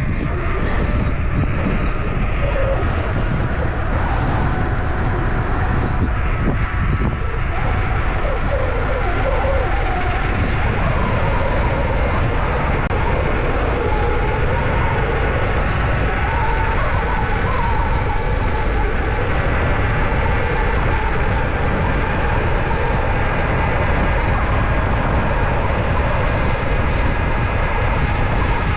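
Mountain bike ridden fast downhill: steady loud wind noise on the camera microphone mixed with the constant rattle of the bike and tyres over rough ground.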